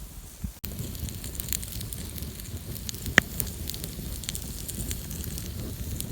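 Small campfire of damp wood crackling steadily, with scattered sharp pops and one loud pop about three seconds in.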